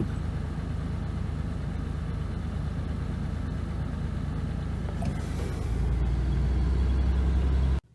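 Land Rover Series III engine running steadily, heard from inside the vehicle. It grows louder a little over two-thirds of the way through, then cuts off abruptly near the end.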